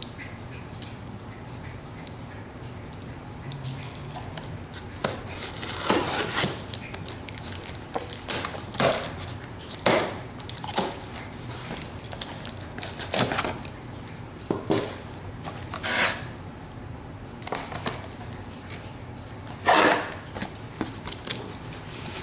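A kettle's retail box being opened by hand: irregular rustling, scraping and tearing of cardboard and packaging. It starts about three seconds in and comes in uneven strokes, some louder than others.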